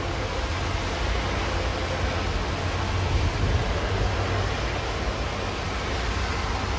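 Steady rain hiss over a low rumble of highway traffic, with no thunderclap.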